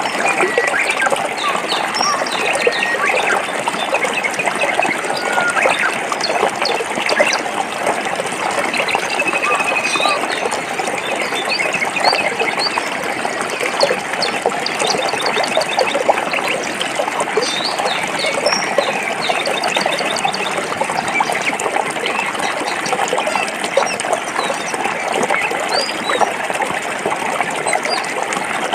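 Forest stream flowing and splashing over rocks, steady throughout, with small birds chirping and trilling over it.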